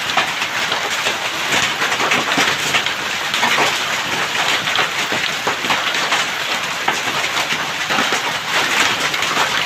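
Heavy hail mixed with rain pelting down: a dense, steady clatter of countless sharp hailstone hits over the rush of rain.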